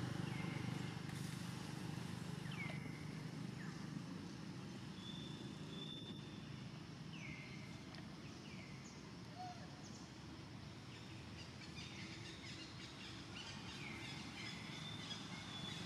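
Outdoor forest ambience: a steady low rumble, with short high calls from birds, each falling quickly in pitch, repeating every second or few. One brief steady high note comes in about five seconds in.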